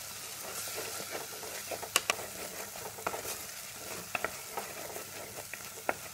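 Onion-tomato spice masala sizzling in an earthenware clay pot as a spatula stirs it, with several sharp taps and scrapes of the spatula against the pot.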